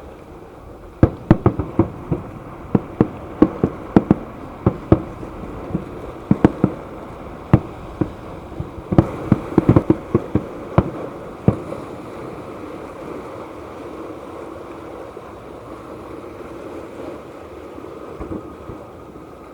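Aerial fireworks bursting: a rapid, irregular volley of sharp bangs, thickest near the middle, over a steady background noise. The bangs stop after about eleven seconds.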